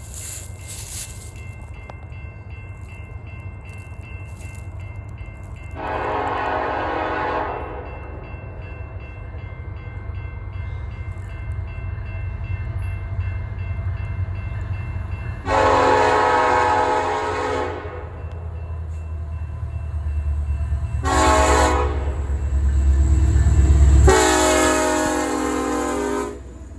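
BNSF locomotive air horn sounding four chord blasts, long, long, short, long: the standard grade-crossing signal. Underneath, the low rumble of the train grows as it approaches and drops away suddenly during the last blast.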